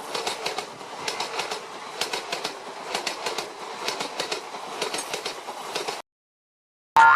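A train running along the track, its wheels clattering over the rail joints in quick, uneven clacks. It cuts off suddenly about six seconds in.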